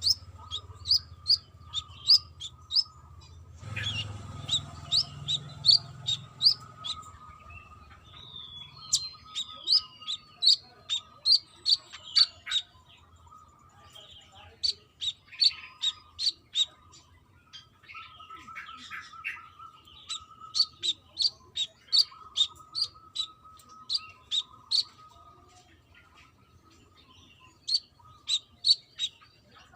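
Brown-throated sunbird singing: phrases of sharp, high chirps, about three a second, each phrase of several notes with short pauses between. A faint steady high hum runs underneath.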